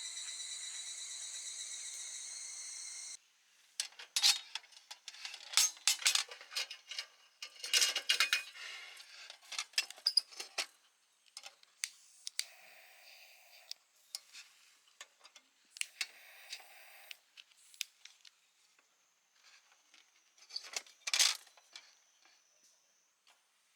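Crickets trilling steadily, cut off abruptly about three seconds in. Then scattered clinks and clatters of camp cookware and cutlery being handled, with a louder cluster near the end.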